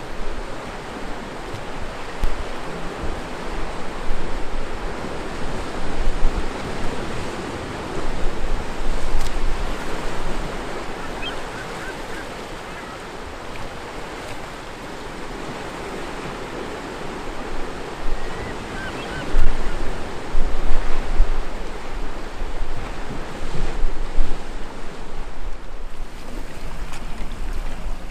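Ocean waves washing in and out, with wind gusting on the microphone. The wash swells and falls unevenly and is loudest about two-thirds of the way through.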